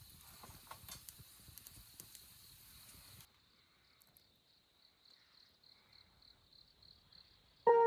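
Night insects chirping in a steady pulsing high trill, about four pulses a second. For the first three seconds there is also faint irregular crackling, which then stops abruptly.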